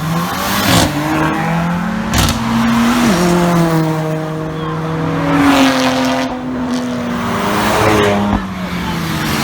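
Modified car engine revving hard as it pulls away. The pitch climbs and drops sharply with quick gear changes about a second in and again around two and three seconds, then holds in a long pull that slowly falls away.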